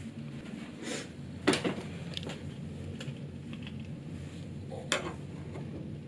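A few scattered knocks and clicks, the sharpest about a second and a half in and again near the end, over a low steady room hum.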